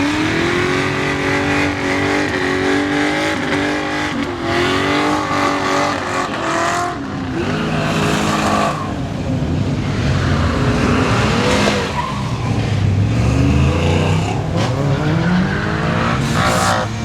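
Car engine revving up and down again and again, its pitch rising and falling several times.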